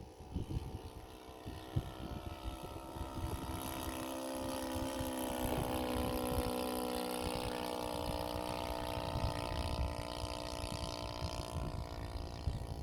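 Engine of a radio-controlled scale model Cessna AGwagon 188 airplane in flight, its drone swelling as it passes close and fading again near the end, with wind buffeting the microphone.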